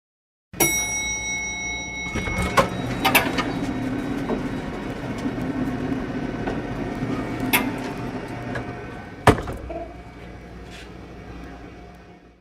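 A sound-effect recording that starts abruptly: a steady mechanical rumble with scattered clicks and knocks and one sharp knock a little over nine seconds in, fading out near the end.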